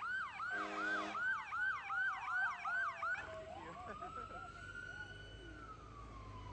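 Fire truck siren in a fast yelp for about three seconds, with a brief horn blast about half a second in, then switching to one slow rising and falling wail.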